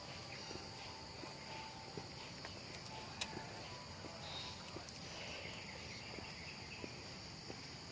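Steady high-pitched drone of insects, with faint scattered ticks underneath.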